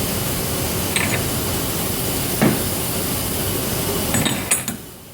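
Label-printing machinery running steadily, with a click about a second in, a sharp knock midway and a few quick clicks near the end, after which the sound falls away.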